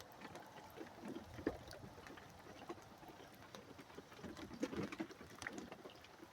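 Faint background with scattered soft ticks and taps, and a couple of dull low blips. No thunder is heard.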